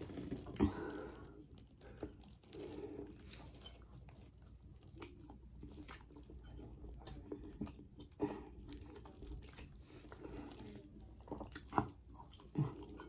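A person chewing tender baked chicken close to the microphone: quiet chewing with scattered small mouth clicks, a few of them sharper.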